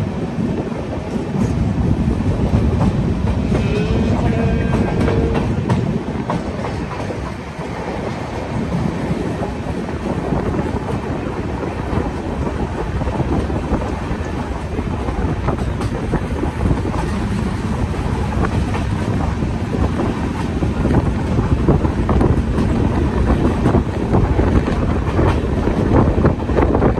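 Moving passenger train's coach running along the track, a steady rumble with the clickety-clack of its wheels over the rail joints, heard from an open coach window.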